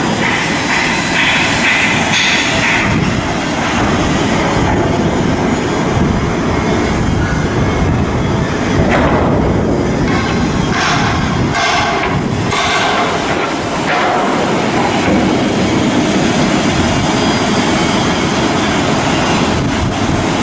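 Loud, continuous rumble of heavy machinery, with a few short, harsher bursts between about nine and fourteen seconds in.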